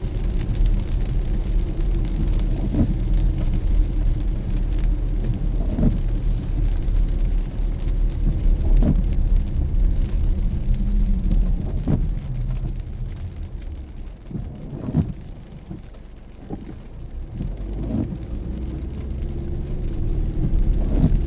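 Car driving in the rain: a steady low road and engine rumble, with a short swish about every three seconds. It grows quieter for a few seconds past the middle, then builds back up.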